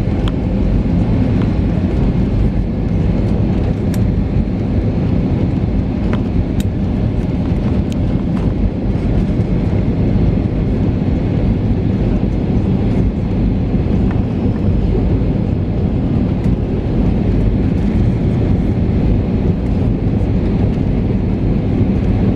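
Steady cabin noise inside an Airbus A320neo airliner: the constant rush of airflow and the hum of its CFM LEAP-1A jet engines, loud and even, with a few faint clicks.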